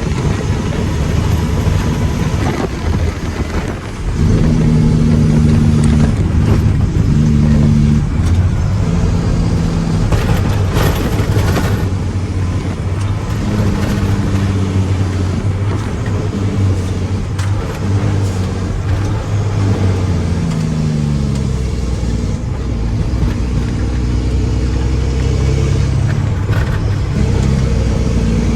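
Mack truck's diesel engine running under varying load. Its note and level rise about four seconds in, and its pitch slides down about two-thirds of the way through.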